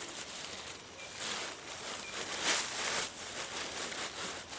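Rustling and scraping of hands digging through soil and potato plant foliage, in a series of short hissy bursts, the loudest about halfway through.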